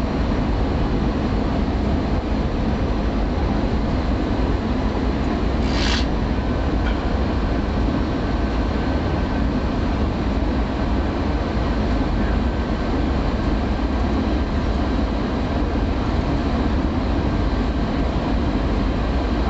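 Jet airliner cabin noise: a steady engine and airflow rumble heard from inside the passenger cabin, with a brief hiss about six seconds in.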